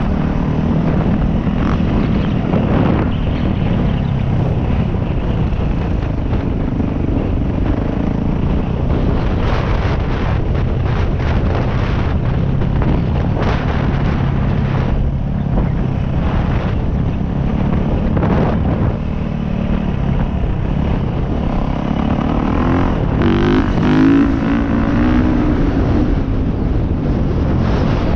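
Dirt bike engine running while riding, its pitch rising and falling with the throttle and revving up around 23 to 25 seconds in, with wind buffeting the microphone.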